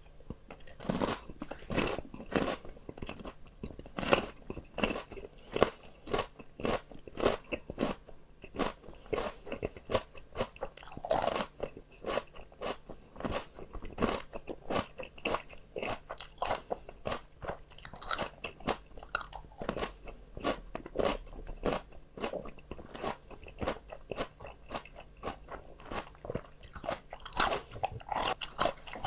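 Close-miked crunchy biting and chewing of fresh raw vegetables, a continuous run of irregular crisp crunches.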